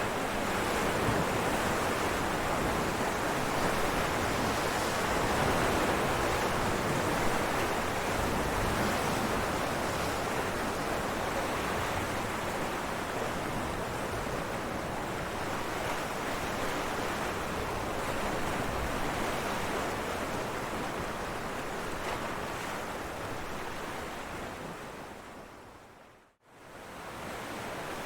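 Ocean waves breaking on rocks, a continuous rushing surf. About 26 seconds in it fades out to a moment of silence and fades back in, like a loop splice.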